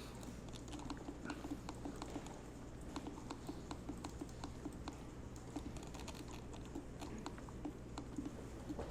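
Computer keyboard keys clicking irregularly, small scattered taps over a faint steady low hum.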